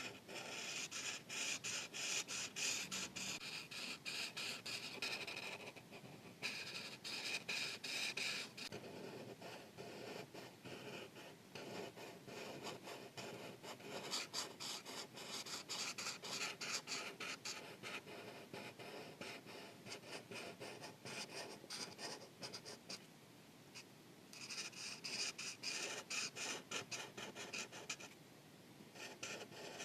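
Markers scratching quickly back and forth on paper as an area is colored in, in runs of rapid strokes broken by a few short pauses.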